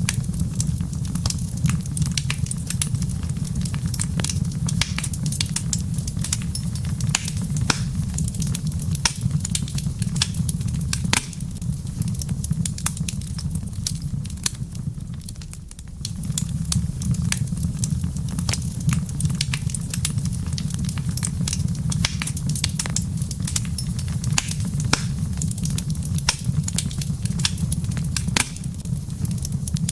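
Wood fire in a fireplace crackling, with frequent sharp pops over a steady low rumble; the rumble drops away briefly about halfway through, then comes back.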